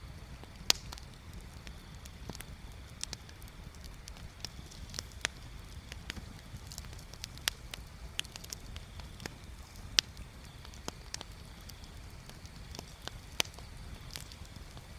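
Bonfire crackling: wood burning with irregular sharp pops and snaps, a few louder ones about a second in, near the middle and toward the end, over a steady low rumble.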